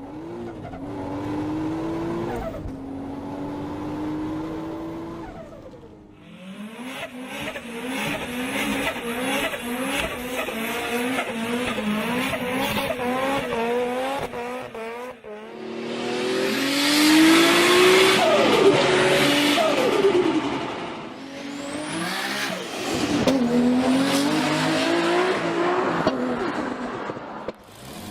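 Several clips in a row of turbocharged Japanese sports cars revving and accelerating hard, engine pitch climbing and dropping through gears, with turbo flutter between throttle lifts. Roughly two-thirds of the way through comes the loudest part, a rushing hiss over the engine.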